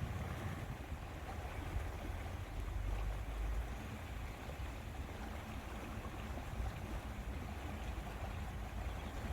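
Steady outdoor ambience of lake water lapping, with wind rumbling on the microphone in gusts, strongest about three seconds in.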